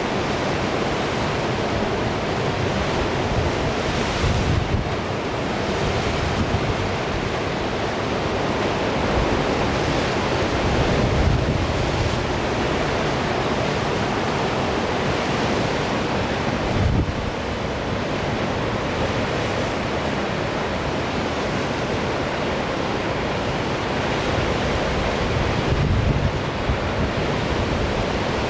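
Sea surf washing and breaking in a strong wind, with wind buffeting the microphone in low rumbling gusts every several seconds.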